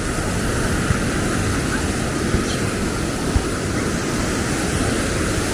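Steady outdoor beach ambience: surf and road traffic mixed in a continuous wash, with a flickering low rumble of wind on the microphone and a few soft knocks.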